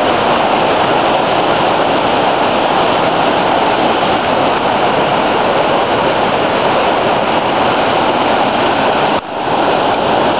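Waterfall: a steady, loud rush of falling water, briefly dropping in level about nine seconds in.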